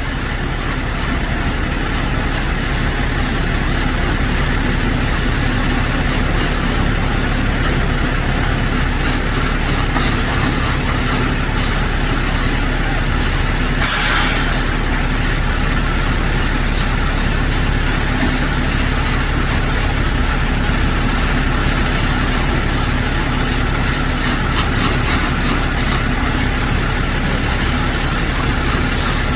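Heavy truck diesel engine running steadily at idle, with one short air hiss about halfway through.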